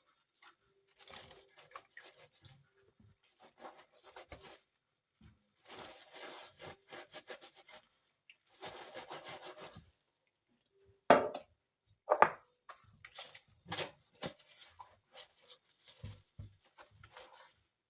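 Kitchen food-preparation sounds: several short runs of quick scraping and rubbing strokes, then two sharp knocks and a few lighter taps and clicks.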